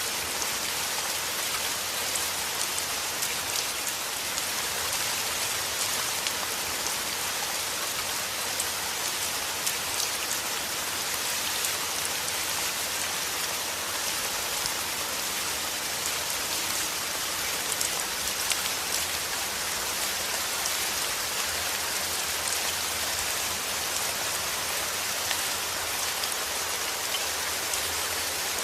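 Steady heavy rain: a dense, even hiss of falling rain with many small drop ticks.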